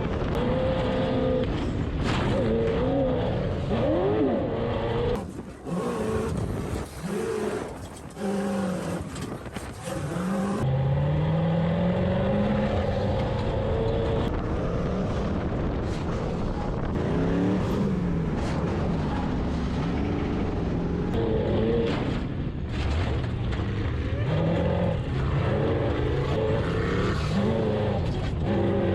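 Off-road sand car engine revving up and down as it is driven hard over the dunes, with its pitch rising and falling repeatedly; the sound briefly drops away about five seconds in and comes back near the ten-second mark.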